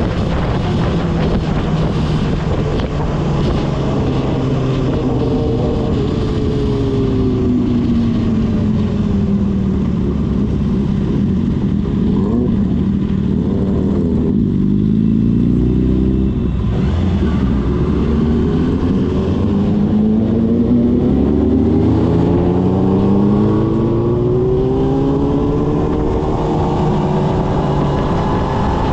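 Kawasaki ZX-6R's inline-four engine running on the move. The engine note sinks slowly for about twelve seconds as the revs fall off, then climbs steadily again over the last dozen seconds as the bike pulls.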